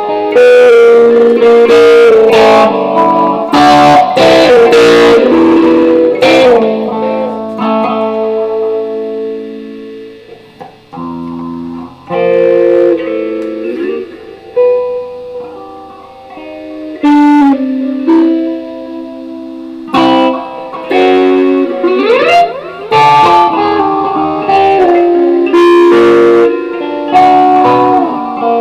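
Electric guitar played, picking single notes and chords with some sliding notes, loud, with a quieter passage about ten seconds in.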